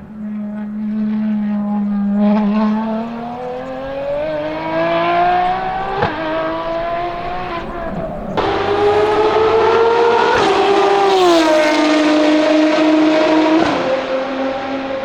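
Ferrari FXX K Evo's V12 engine accelerating hard on track, its pitch climbing steadily for several seconds. About eight seconds in it suddenly gets louder, then its pitch steps down twice and holds.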